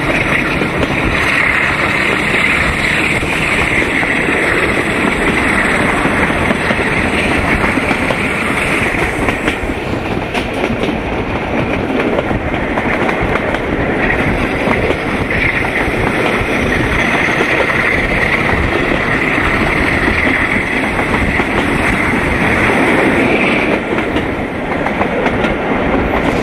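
Train in motion heard from an open coach window: a diesel locomotive at the head working under power, laying dark exhaust, mixed with the running noise of the coach over the track.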